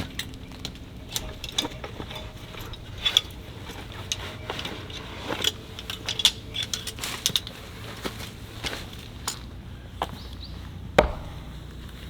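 Irregular short knocks and clicks of something being handled or struck, with one sharp, louder knock near the end.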